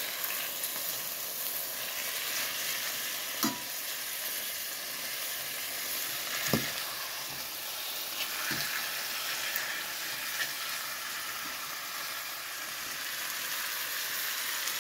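Chicken breasts, onions and garlic sizzling steadily as they fry in a stainless steel pan. A metal spatula scrapes and knocks against the pan a few times as the pieces are turned.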